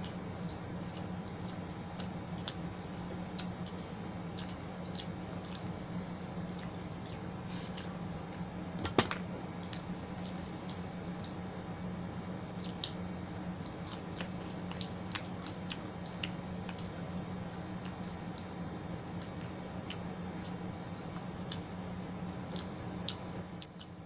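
Close-miked eating sounds: wet, squishy mouth noises and chewing with scattered small clicks, over a steady background hum. One sharper click stands out about nine seconds in.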